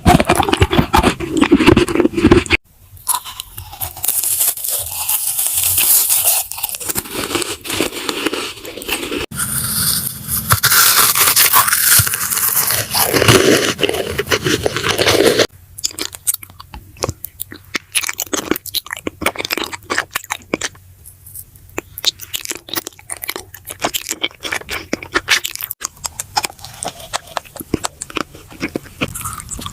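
Close-miked eating sounds: crisp bites, crunching and wet chewing, with the texture changing abruptly several times as different foods are eaten.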